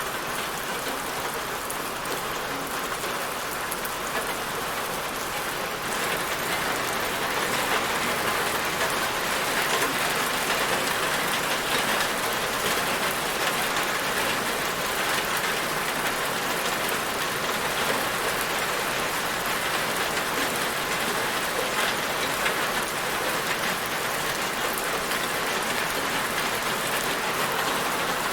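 Steady rain falling on a surface, a dense even hiss of many drops with fine ticks of individual drops, growing slightly heavier about six seconds in.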